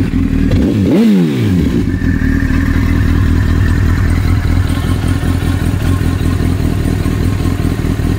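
Honda sportbike's inline-four engine blipped once about a second in, its pitch rising and falling quickly, then settling into a steady idle.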